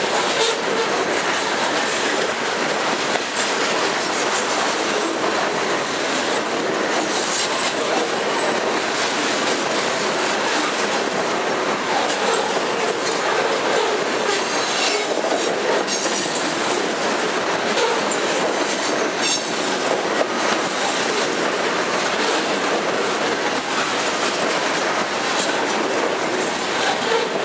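Loaded covered grain hopper cars rolling past close by: a steady rumble and rattle of steel wheels on the rails, with occasional sharper clicks.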